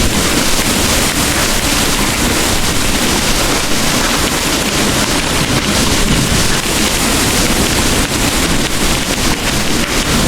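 Heavy rain pouring steadily, a dense even hiss with a low rumble underneath.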